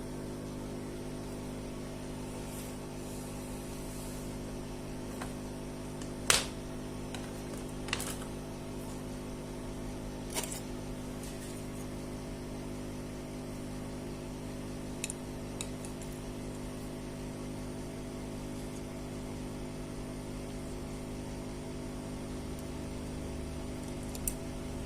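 A steady hum made of several pitches, with a few sharp clicks; the loudest click is about six seconds in and smaller ones follow about two, four and nine seconds later.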